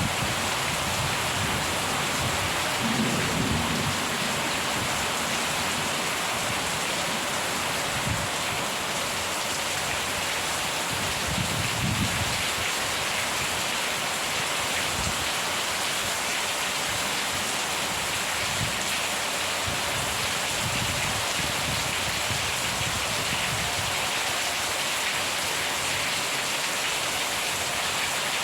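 Steady, heavy rain with low rolls of thunder, the strongest about three seconds in and again about twelve seconds in, with fainter rumbles later on.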